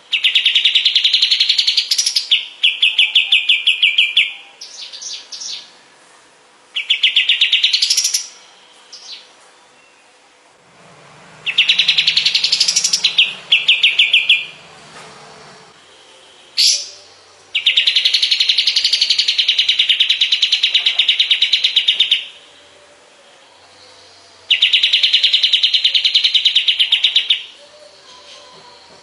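Kapas tembak songbird singing long, fast trills of rapidly repeated notes. Each phrase lasts about two to five seconds, with short pauses between phrases.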